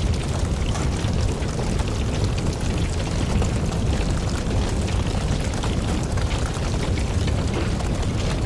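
Wood campfire burning: a steady low rumble of flames with many small crackles and pops from the logs throughout.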